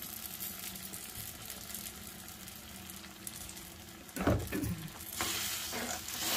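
Tomato masala base frying and sizzling in a pan as a spoon stirs it, with a loud knock about four seconds in. From about five seconds the sizzling grows louder as the ground masala paste goes into the hot pan.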